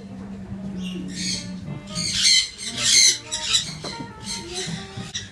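Birds squawking harshly in several loud screeches, the strongest about two and three seconds in, over background music.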